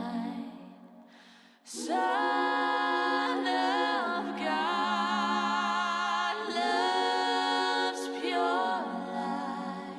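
A cappella vocal music: several voices singing in harmony with no instruments. A phrase fades out at the start, and after a short pause the singing comes back in about two seconds in and carries on steadily.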